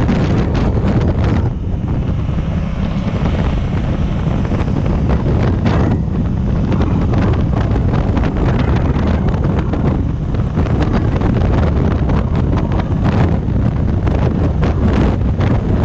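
Heavy wind noise buffeting the microphone of a motorcycle riding at speed, a steady loud rush strongest in the low end. Engine and road noise from the Honda African Twin sit under it.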